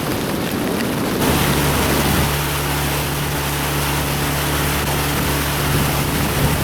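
Rain hissing with wind on the microphone; about a second in, a boat motor's steady low hum joins and runs evenly.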